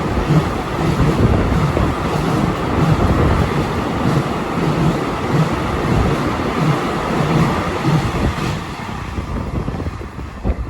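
Freight train passing close by, its wheels rumbling with a repeating clatter over the rails; the noise dies down about ten seconds in as the train goes by.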